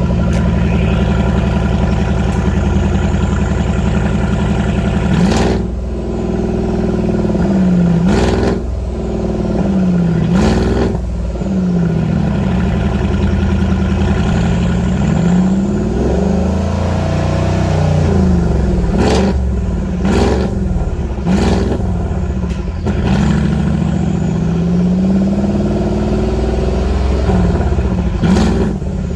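Mercedes-Benz X166 GLS500's twin-turbo V8 revved repeatedly through a valved cat-back exhaust with a sport resonator. The pitch rises and falls again many times, broken by a few short sharp cracks.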